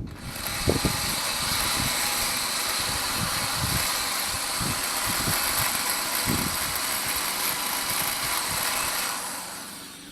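A high-speed rotary grinding tool running steadily with a hissing whine while deburring an engine block. It winds down about nine seconds in.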